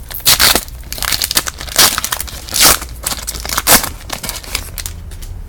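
Foil wrapper of a sealed trading card pack being torn and crinkled open, with several loud rips about a second apart. The pack is glued hard shut, so it takes repeated pulls.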